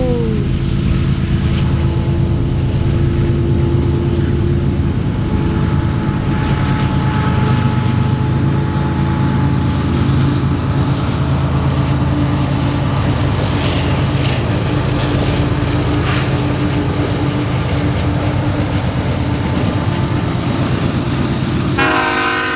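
CSX freight train's diesel locomotives passing close by, their engines running loud and steady with a heavy low rumble. Near the end the locomotive's air horn starts to sound.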